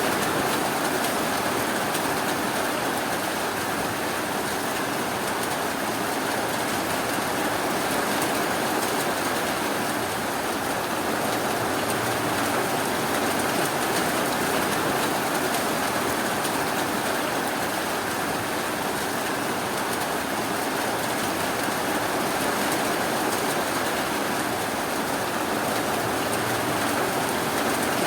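Steady rainfall, an even hiss that holds constant without thunder or breaks.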